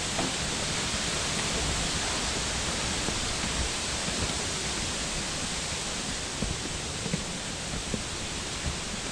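Steady rush of flowing and falling water from cascades and streams, with a few faint knocks in the second half.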